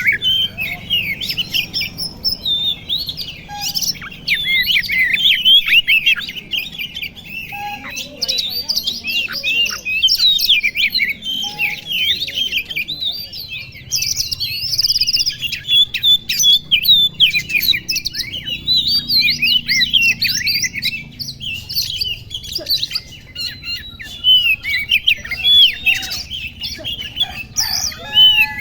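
Oriental magpie-robin (kacer) singing a fast, unbroken stream of varied chirps and whistles.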